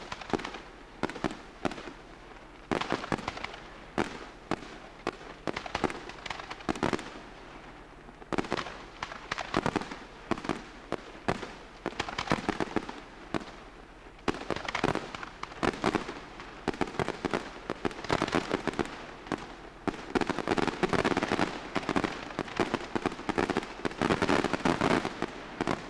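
Fireworks display: shells bursting in an irregular string of sharp bangs, with dense stretches of rapid crackling, building to a thick, louder barrage in the last few seconds.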